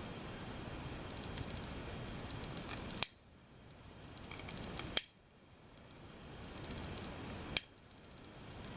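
Flush cutters snipping 3D-printed plastic: three sharp clicks, about two seconds apart, as stringing and rough bits are trimmed off the print.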